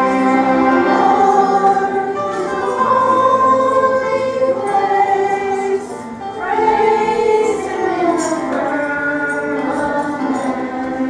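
A church choir singing a gospel-style praise song with instrumental accompaniment, with a short break between phrases about six seconds in.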